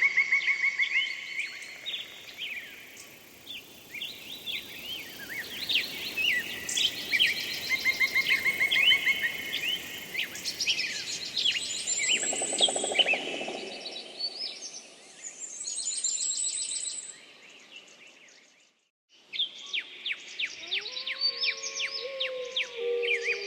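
Several songbirds singing at once: dense chirps, trills and rising whistles. The sound cuts out briefly about two-thirds of the way through, then chirping resumes with some long, lower gliding tones underneath.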